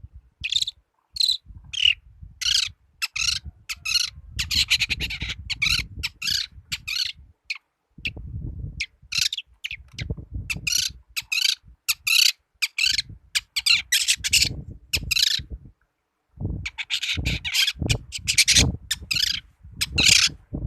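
Juvenile long-tailed shrike (cendet) calling actively: a rapid run of short, harsh chirps and chattering phrases, broken by two brief pauses, about 7 s and 16 s in.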